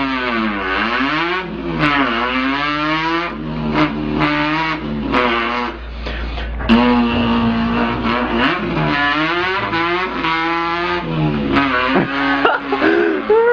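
A man imitating a car engine with his voice, revving it up and down. The pitch swoops low and back up, holds at a steady drone for a few seconds, drops, then climbs again in repeated rising sweeps like an engine going up through the gears.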